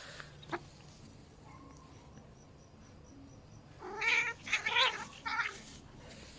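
Cat yowling during a fight with another cat: a quick run of three or four wavering, harsh cries about four seconds in, after a single faint knock near the start.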